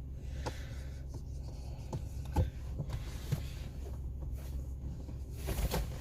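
Scattered light taps and rubbing, like objects being handled in a small enclosed space, over a steady low rumble.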